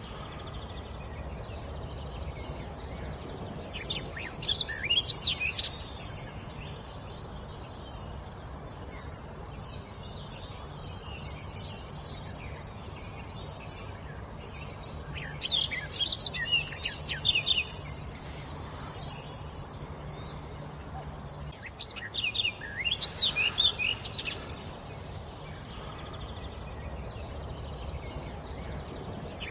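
A songbird singing in bursts of quick whistled notes, each phrase about two seconds long, three phrases several seconds apart, with a fourth starting near the end. A steady low background noise runs underneath.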